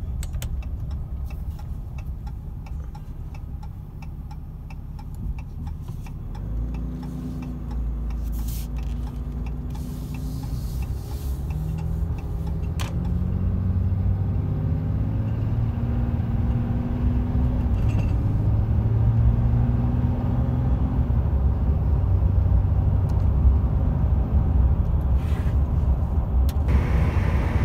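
Diesel engine running and revving under load, its pitch rising and falling in steps, and growing louder from about six seconds in.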